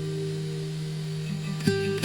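Soft acoustic guitar music: held notes fading away, with a new plucked note near the end.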